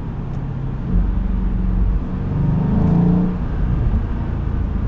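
Mercedes-Benz E63 AMG's twin-turbo V8 running under way in fourth gear, heard from inside the cabin. The engine note rises in pitch from about two seconds in and is loudest around three seconds.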